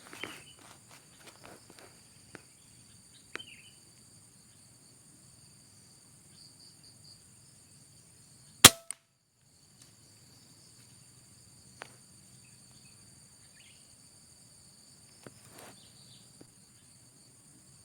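A single sharp gunshot about halfway through, over a steady high insect drone, with a few light rustles and clicks near the start.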